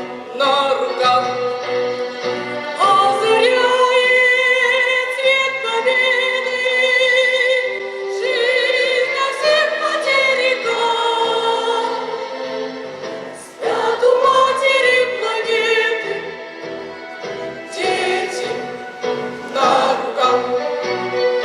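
A school choir singing in several voices, holding long notes with vibrato. The singing briefly dips in loudness about two-thirds of the way through.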